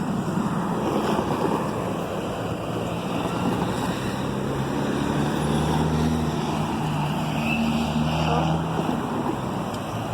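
A road vehicle passing close by, its engine's low hum rising and fading over several seconds under a steady rush of tyre and wind noise.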